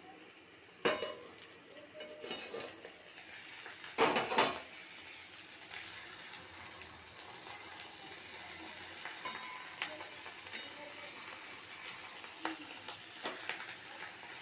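Banana-leaf parcels of fish frying in hot oil in a kadai, with a steady sizzle and scattered small pops. There is metal clatter from the steel lid and spatula against the pan, loudest about four seconds in, and after that the sizzling is steadier and louder.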